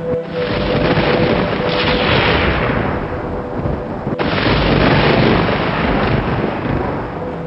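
Thunder: a sharp clap about a quarter second in, rolling on, then a second sharp clap just after four seconds followed by long rumbling.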